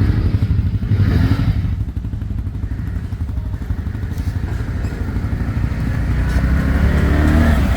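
ATV engine running with a fast low pulsing, its pitch rising in the last couple of seconds as it revs up.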